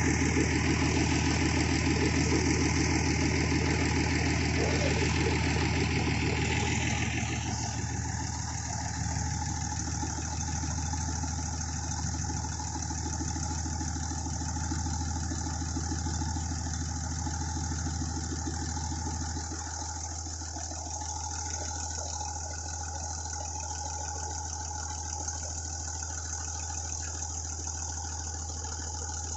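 An engine running steadily at idle on test. It drops a little in loudness about seven seconds in and settles again around twenty seconds in.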